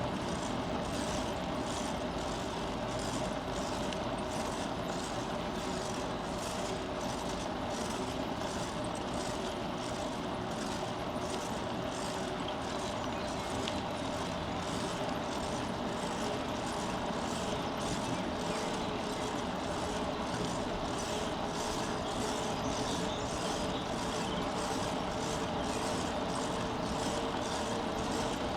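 Bicycle riding along a forest path: steady tyre and drivetrain noise with a light hum and a regular ticking about twice a second.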